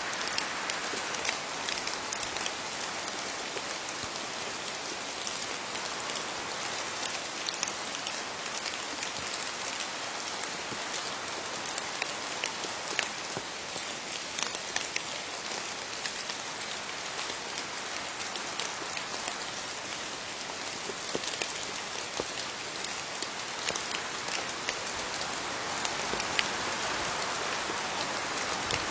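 Steady rain falling on leaves, a continuous hiss with many individual drops pattering and ticking through it.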